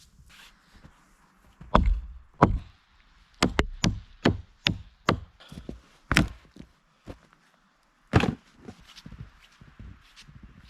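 Sharp wooden knocks and cracks of dead wood being worked for firewood, about eight separate strikes with a quick run of five in the middle, among footsteps in snow.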